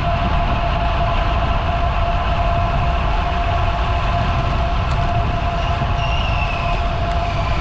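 Wind rumbling over the microphone of a camera on a moving bicycle, with a steady high hum and a fainter whine that falls in pitch near the end.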